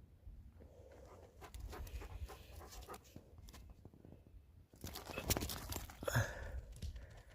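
Dog chewing and biting a wooden stick: irregular crackling and snapping, loudest about five to six seconds in.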